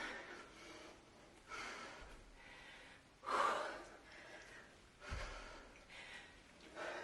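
A woman's hard, breathy exhales, four of them at a steady pace of one every one and a half to two seconds, as she works through repeated kettlebell cleans, with a couple of dull low thuds among them.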